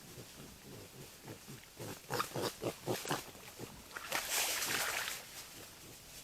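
Wild boar grunting: a quick run of about seven short, low grunts, followed about a second later by a longer hissing, breathy noise.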